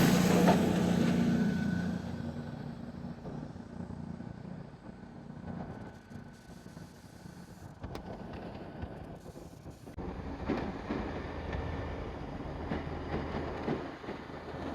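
A passing vehicle dying away over the first two seconds, then a quieter low engine rumble; the sound changes abruptly about ten seconds in.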